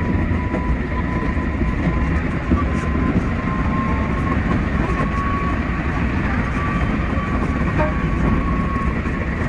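Keikyu 600 series electric train running at speed, heard from inside the driver's cab: a steady, even rumble of wheels on rail with a thin whine that holds steady and rises slightly in pitch.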